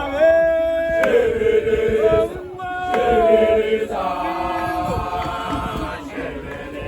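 A group of voices singing a chant in harmony, holding long notes of about a second each, with short breaks between phrases.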